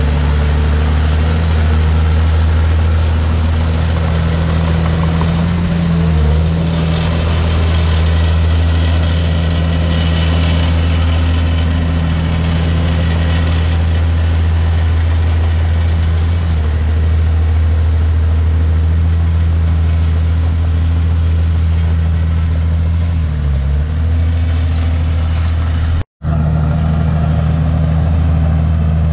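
Komatsu D51PX bulldozer's diesel engine running steadily, its pitch dipping briefly twice. The sound drops out completely for an instant near the end.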